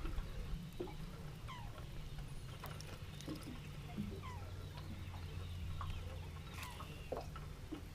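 Birds calling: scattered short, falling chirps, over a steady low rumble.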